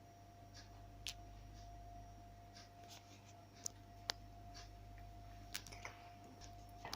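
Quiet room tone with a steady electrical hum, broken by a few faint, sharp clicks and taps.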